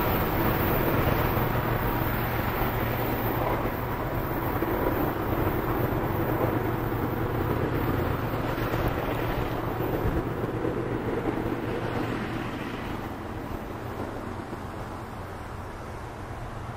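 Freight train running on the tracks and moving away, its low rumble of wheels and engines fading slowly, with wind on the microphone.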